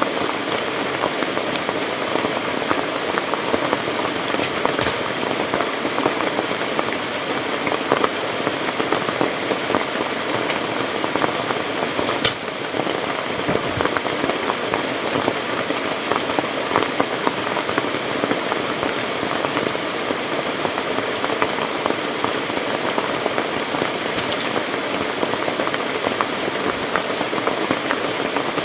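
Steady, even rushing of water, as from heavy rain and a fast-running stream.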